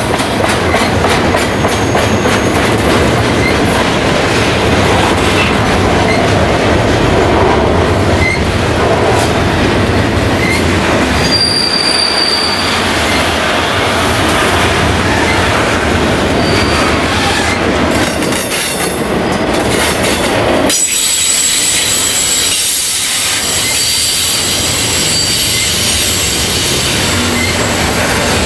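Freight train cars rolling past, a loud steady rumble of wheels on rail with clickety-clack and brief thin, high wheel squeals. About three-quarters of the way through, the deep rumble falls away, leaving a lighter rolling hiss with a steady high squeal.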